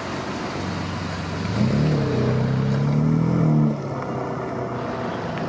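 A car engine pulling away past the listener, its note climbing about two seconds in and dropping away just before the four-second mark, over a steady background of traffic noise.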